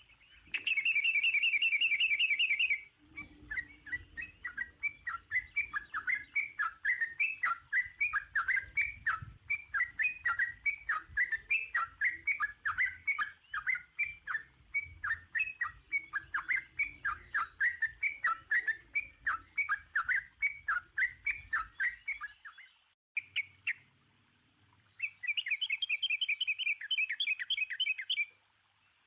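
Songbird singing: a fast trill, then a long run of short falling chirps at about three or four a second. After a brief pause, another fast trill comes near the end.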